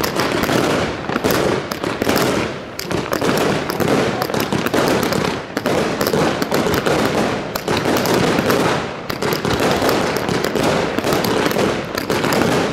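Aerial fireworks going off in a dense, rapid barrage of bangs and popping, with brief lulls every few seconds.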